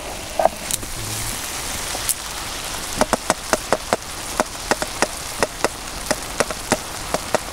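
Small freshwater shrimp frying in a pan: a steady sizzle, with sharp, irregular pops and spatters from about three seconds in.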